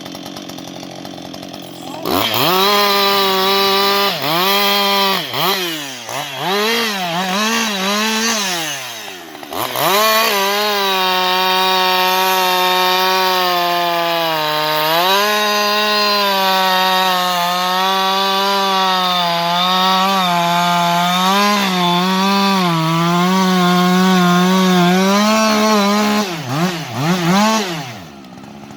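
Husqvarna 560XP two-stroke chainsaw revved hard, its pitch swinging up and down, then held near full throttle for about fifteen seconds with the pitch sagging as it bogs under load while cutting wood. It drops back near the end.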